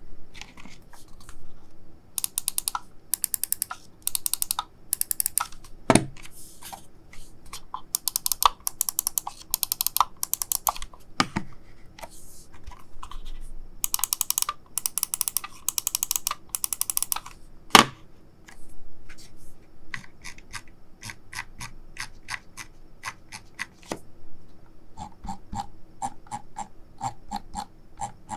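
Logitech G Pro X Superlight-series gaming mouse buttons being clicked in quick runs of sharp clicks, about three or four a second, with a few heavier knocks in between.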